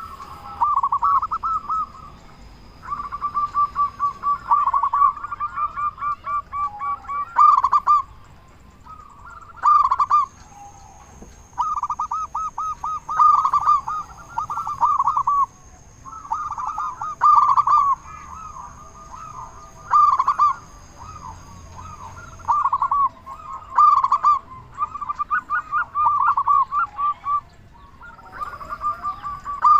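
Zebra dove (perkutut) cooing: bursts of quick, rolling staccato notes repeated every few seconds, with short pauses between them. A faint, thin high steady tone sounds behind it for part of the time.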